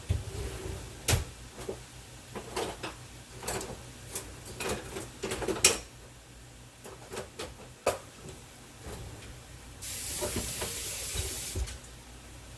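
A cooking utensil clinking and knocking against a frying pan as broccoli and mushrooms cook in broth. Near the end comes a steady hiss of about two seconds that starts and stops abruptly.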